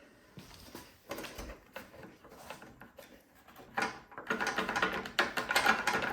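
Hand tools working on a snowblower's metal parts: scattered clicks and knocks, then from about four seconds in a louder, rapid run of clicking.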